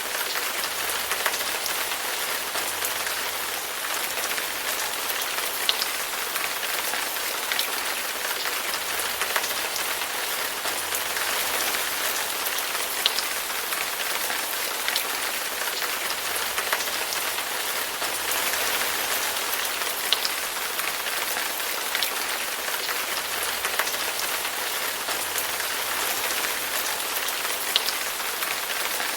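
Steady rain falling on a hard surface, an even hiss with single louder drop-hits every second or two.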